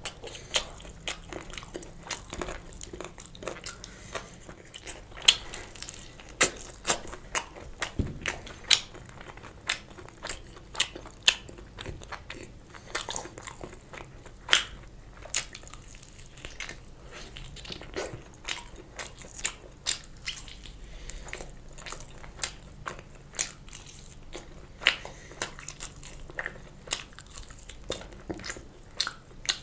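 Close-miked eating of fried chicken: biting, chewing and tearing meat from a chicken leg, with irregular sharp clicks and crackles several times a second.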